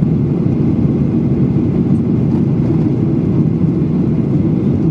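Steady airliner cabin noise: an even, low rumble of engines and airflow heard from inside the passenger cabin.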